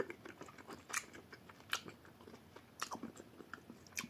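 A person chewing a mouthful of grilled sausage: soft mouth and chewing noises with a few sharper clicks, roughly one a second.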